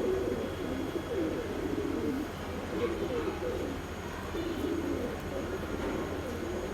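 Domestic pigeons cooing, one low, wavering coo after another.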